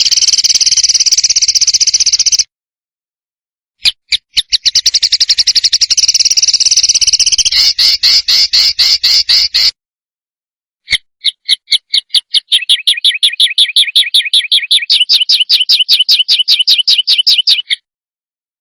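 Songbird song made of rapid, harsh repeated notes and dense trills, the 'besetan' and 'tembakan' phrases used to tutor competition songbirds. It comes in three long runs broken by sudden, completely silent gaps where the recording is cut.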